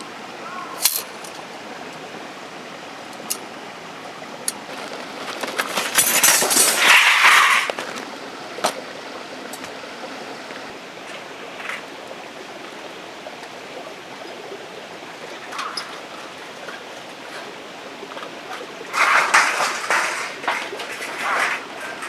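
Steady hiss of rain, with scattered light clinks and knocks of camp gear being handled, and two louder spells of rustling handling noise, one about six seconds in and one near the end.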